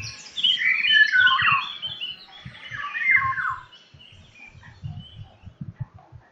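Indian golden oriole singing: a run of clear whistled notes that fades out about four seconds in.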